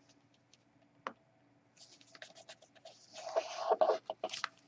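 Paper and card being handled and rubbed: a small tap about a second in, then scratchy rustling and scraping from about two seconds in, loudest in the second half.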